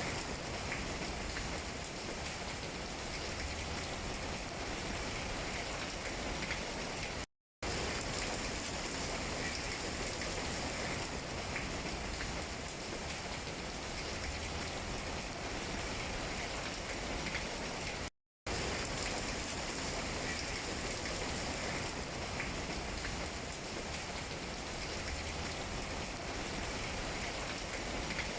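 Steady rain falling on tree leaves, an even hiss. It cuts out to dead silence for a fraction of a second twice, about 7 and 18 seconds in, where the recording's loop restarts.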